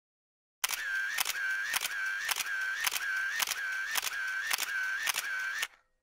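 Camera shutter clicking repeatedly, about ten shots at roughly two a second, with a short whine between clicks, stopping just before the end.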